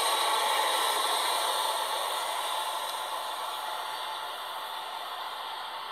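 Passenger train passing through a station at speed, a steady rushing rattle that slowly fades as it goes away, heard as played back through a phone's speaker.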